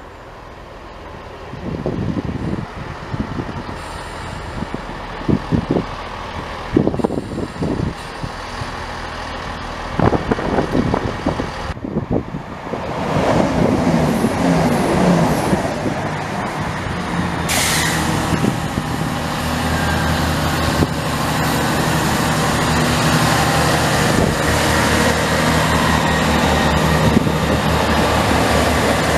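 Chiltern Railways diesel multiple-unit trains running through the station. The diesel engine and wheels on the rails build to a loud, steady rumble from about thirteen seconds in as a train passes close by. A sudden hiss comes in about halfway through and carries on.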